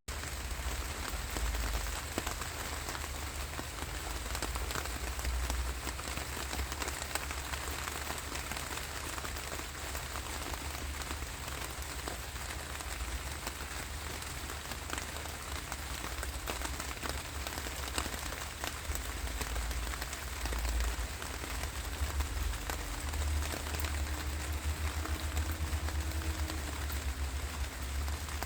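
Steady rainfall, a continuous hiss dotted with the ticks of individual drops striking a surface, over a low rumble.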